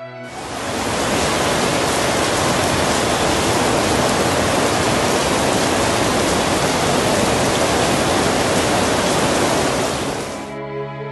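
Heavy downpour: a loud, dense, unbroken hiss of rain that cuts in just after the start and cuts off abruptly near the end.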